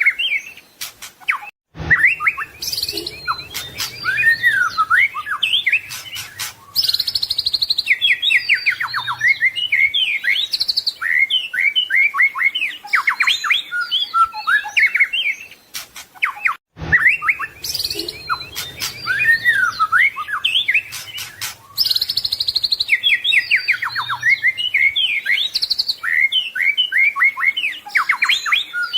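White-rumped shama (murai batu) singing a fast, varied song of whistles, rapid trills and chattering phrases. It breaks off briefly about two seconds in and again past the middle, after which the same stretch of song repeats as a loop.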